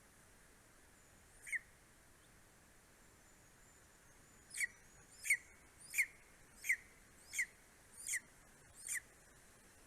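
Greater spotted eagle calling: one short, sharp call, then a steady series of seven more, about one every 0.7 seconds, over a faint background hiss.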